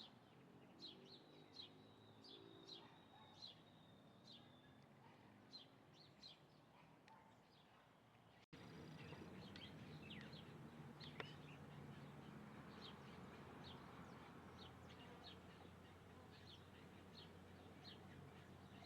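Small birds chirping: a string of short, high chirps about once or twice a second, with a held high whistle in the first few seconds. About eight and a half seconds in the sound cuts and the faint low background rumble behind the chirps becomes louder.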